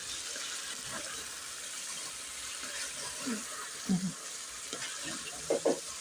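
Chicken frying in oil in a pan: a steady sizzle.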